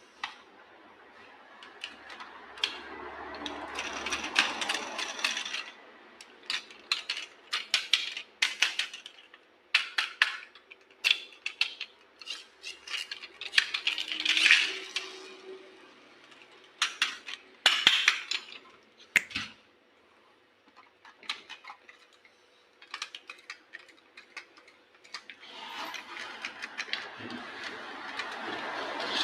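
Toy cars and a toy tank being unboxed and handled: many sharp clicks, clacks and clinks of hard plastic and metal toys, with a few longer stretches of scraping or rustling and a quieter pause past the middle.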